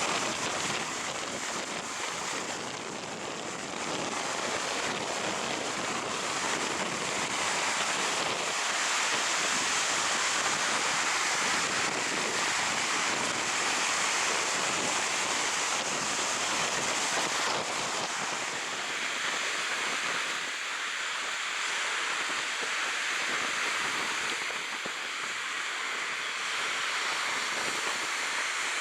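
Stormy sea surf breaking and washing up a sandy beach, a continuous hiss, with strong wind on the microphone.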